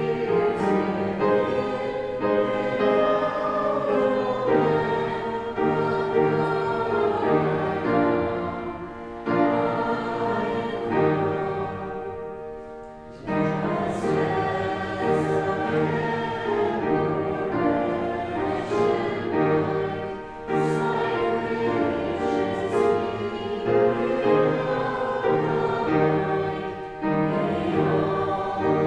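Congregation singing a hymn together with instrumental accompaniment, with a short break about halfway through before the singing resumes.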